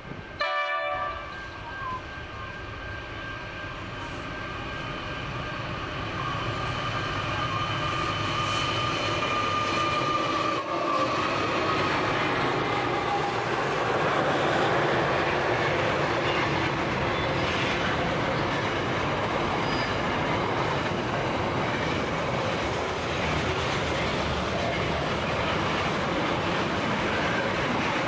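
A short train horn blast near the start, then the NR and G class diesel locomotives of a container freight train grow louder as they work up the grade, with a steady whine over the engine noise. From about 11 seconds in, the container wagons roll past close by with steady wheel-on-rail noise.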